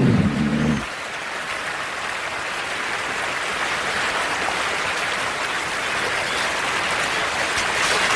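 Rushing creek water, a steady hiss of noise, as a bear wades through the creek after a drifting salmon. Low music tones cut off about a second in.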